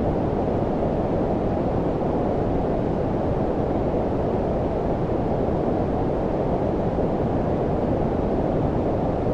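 Steady low-pitched synthetic noise (brown-noise type), an even rumbling hiss that stays the same throughout, with most of its weight below about 1 kHz and little high hiss.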